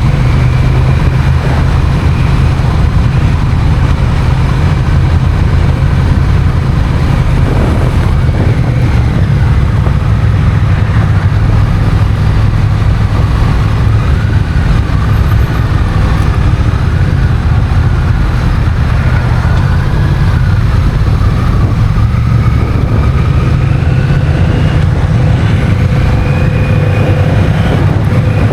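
Honda CMX1100 Rebel's parallel-twin engine running while the bike is ridden, its pitch slowly rising and falling with the throttle over a heavy, steady low rumble.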